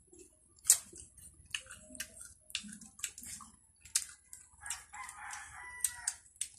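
Sharp, irregular clicks and crunches of crisp watery rose apples (tambis) being bitten and chewed, with a rooster crowing in the background for about a second and a half near the end.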